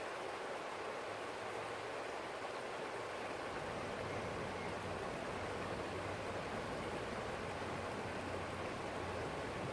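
Small forest stream flowing, a steady rush of running water.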